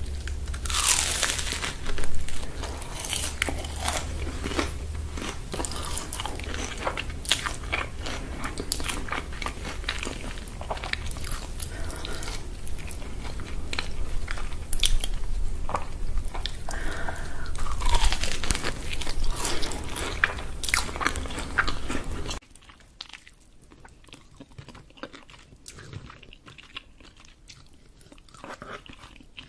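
Crunchy food being bitten and chewed, with many sharp crunches. About three-quarters of the way through the level drops suddenly and the chewing carries on much quieter.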